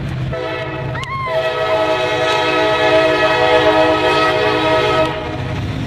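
Freight train locomotive's air horn sounding one long chord blast of about five seconds, several steady notes together, over the continuous low rumble of the passing train.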